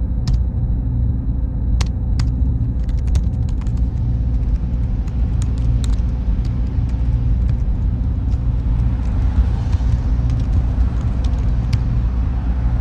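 Server room ambience: a steady low hum of cooling fans and electronics with a thin high whine, scattered light clicks, and a soft hiss that swells in the second half.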